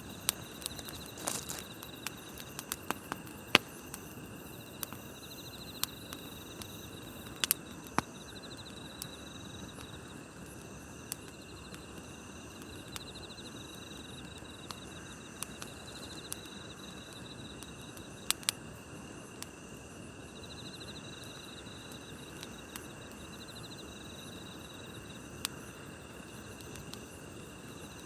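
Campfire crackling, with sharp pops scattered irregularly, the loudest a few seconds in and again near the middle, over night insects singing: a steady high trill and short pulsed chirps recurring every second or two.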